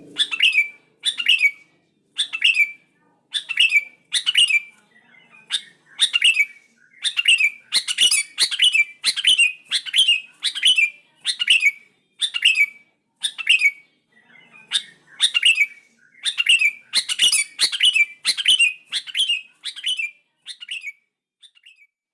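Sooty-headed bulbul (kutilang) calling: a long run of short, sharp, falling notes repeated about one and a half times a second, with a few brief pauses, growing fainter and sparser near the end.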